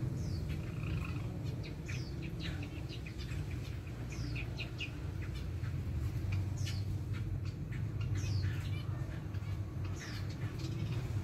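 Small cage birds in an aviary calling: scattered short, high chirps, many of them quick falling notes, repeated every second or so, over a steady low rumble.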